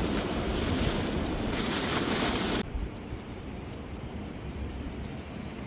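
Steady rushing wind noise. It drops abruptly to a quieter hiss about two and a half seconds in.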